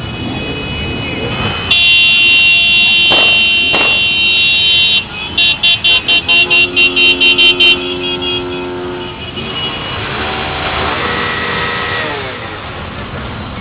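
Vehicle horns sounding in a ride-out: a long horn blast of about three seconds, then a rapid string of short honks, about five a second, with a lower horn held beneath them, over the steady running of road engines.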